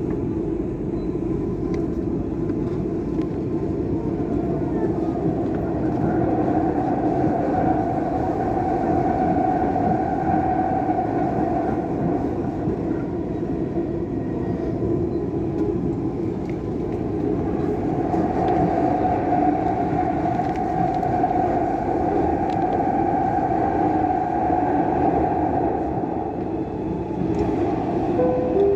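Dubai Metro train running between stations, heard from inside the carriage: a steady rumble with a whine that swells twice and fades.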